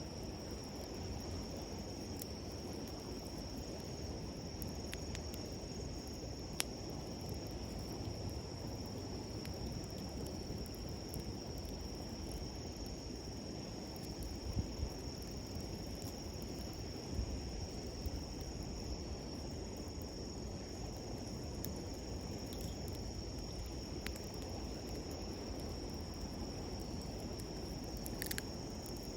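Insects trill steadily and high-pitched over the even rush of a river. A campfire gives a few sharp crackles now and then, the loudest about halfway through.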